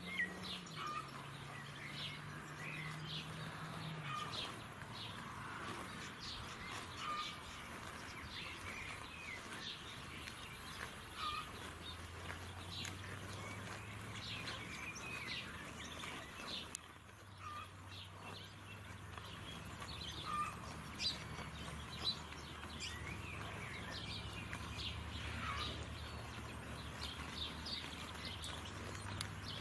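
Small birds chirping and calling over and over, with a faint steady low hum underneath and a few short knocks about two-thirds of the way through.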